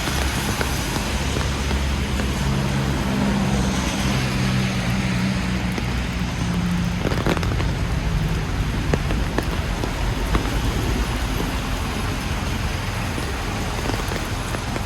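Traffic on a wet city street in the rain: a steady hiss of rain and tyres on wet road, with a vehicle's engine humming low through the first half, fading about seven or eight seconds in.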